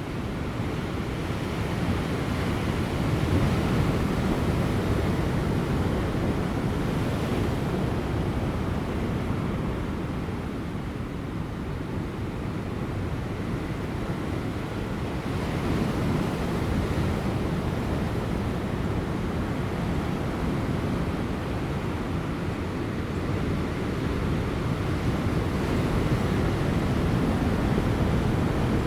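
Large ocean waves breaking on rocks just before high tide: continuous surf that swells louder three times, as successive sets break.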